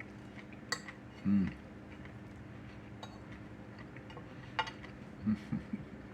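A fork or other eating utensil clinks against a plate three times during eating. There are two short, low hums of a man's voice, the louder about a second in and the other near the end.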